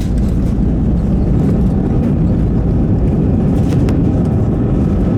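Cabin noise of an Airbus A320 rolling on the ground just after landing: a loud, steady rumble of the engines and the wheels.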